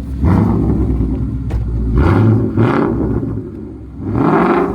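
2016 Ford Mustang GT's 5.0 L V8 revved about four times in quick bursts at a standstill, through a straight-pipe exhaust with an X-pipe and the resonators deleted.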